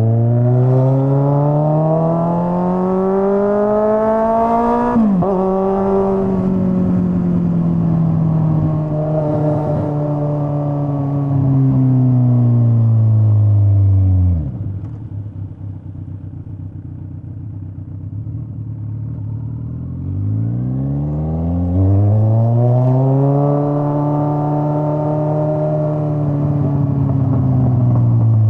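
Straight-piped Kawasaki Z900 inline-four running loud. It revs up, drops sharply at a gear change about five seconds in, then winds down slowly to idle around halfway. After a few seconds of idling it revs up again and eases off near the end.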